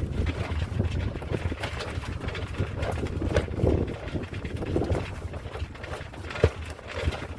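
Gusty wind buffeting the microphone, with irregular knocks, clicks and rustles from a mainsail being handled and tied down on deck.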